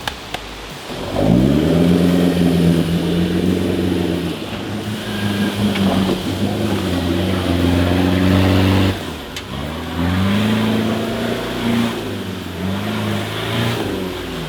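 Off-road 4x4 engine revving hard: it climbs about a second in and holds high for several seconds, then drops suddenly. It climbs again about a second later and rises and falls with the throttle.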